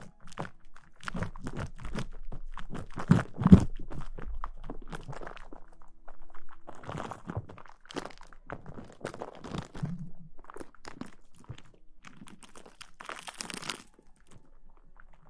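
Close-miked ASMR rustling: dense crackling, crinkling scratches, with a brighter hiss about thirteen seconds in.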